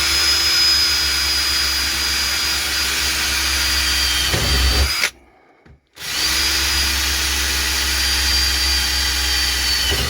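Electric drill running twice, each time for about five seconds with a steady whine, drilling into sheet-metal floor pan; it stops suddenly and starts again about a second later.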